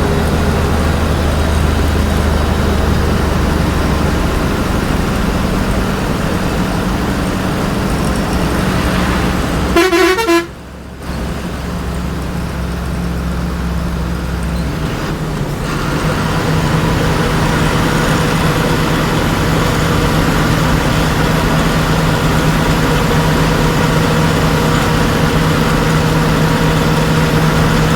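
Ashok Leyland bus's turbocharged diesel engine running steadily under load, with a short horn blast about ten seconds in. The sound drops away for about half a second just after the horn, and the engine note changes around fifteen seconds in.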